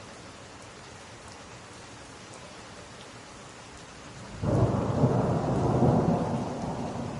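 Steady rain hiss with a few faint drop ticks; about four seconds in, a loud rumble of thunder breaks in suddenly and rolls on.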